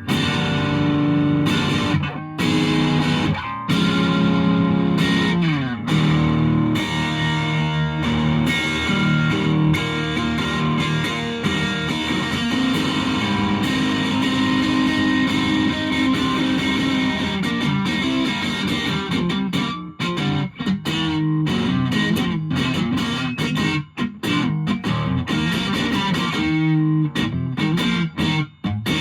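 Electric guitar played through a Boss DS-1 distortion pedal into an amplifier, heard as recorded by a phone: distorted riffs and chords played continuously, with a slide down in pitch about six seconds in and short breaks between phrases in the second half.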